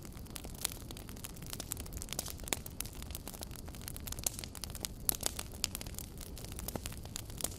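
Wood fire burning, crackling with many small irregular pops and snaps over a steady low rumble.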